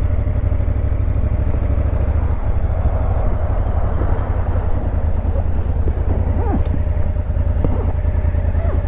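Motorcycle engine running steadily, with an even low pulsing.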